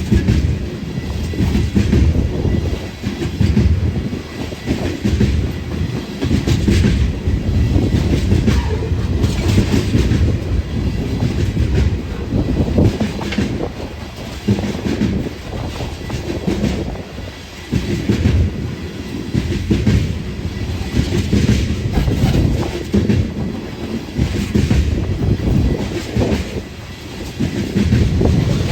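A train rolling past, a steady low rumble with wheels clicking and clacking irregularly on the rails throughout.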